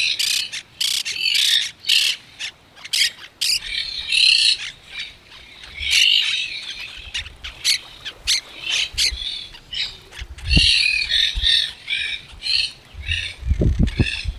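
Parrots squawking in a flock with other birds calling, a dense run of harsh, rapid calls. A few low thumps come near the end.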